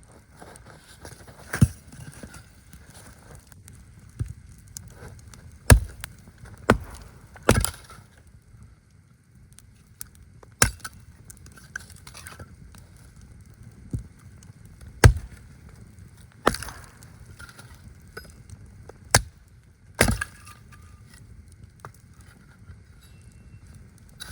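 Wood being broken up: about ten sharp woody cracks and knocks at irregular intervals, some in quick pairs.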